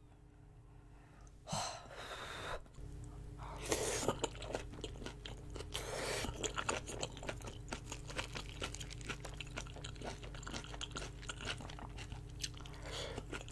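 Close-miked chewing of braised kimchi rolls with pork belly: moist chewing with many small crisp clicks and crunches. Two short, louder noisy sounds come before the chewing settles into a steady run.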